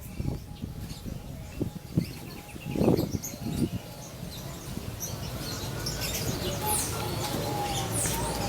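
Many caged songbirds chirping and calling together, short high tweets and a few sweeping calls overlapping throughout. A short, louder low sound comes about three seconds in, over a low steady background din.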